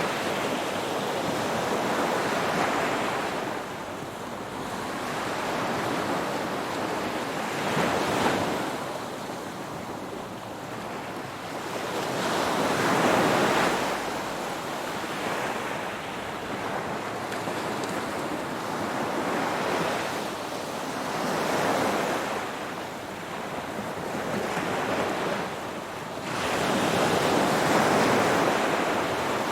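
Ocean waves washing onto the shore in a continuous rushing hiss that swells and recedes every few seconds, with about five surges, the biggest around 13 s and near the end.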